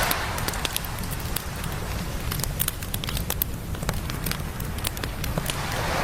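Wood campfire crackling and popping in quick, irregular snaps, over the low steady rumble of surf. The wash of one breaking wave fades at the start and the next begins to swell near the end.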